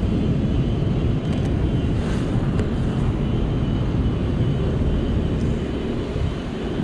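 Wind buffeting the microphone in a snowstorm, a steady low rumbling noise that fluctuates constantly.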